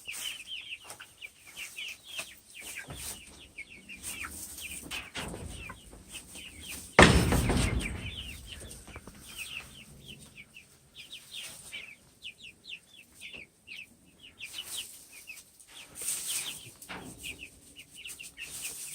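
Chickens clucking and chirping with short, quick calls in a steady stream. A loud rush of noise comes about seven seconds in and fades over a second or two.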